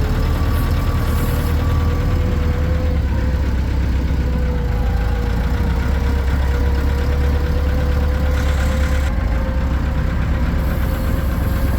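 A vehicle engine running steadily: a loud, even low rumble with a faint whine that drifts slowly upward in pitch.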